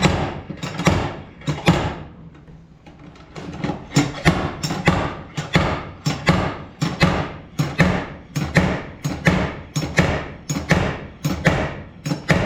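Slide hammer being worked against a tab welded to a crumpled truck door: repeated sharp metal-on-metal strikes, a few at first, then about two a second from a third of the way in, pulling the dented door panel out.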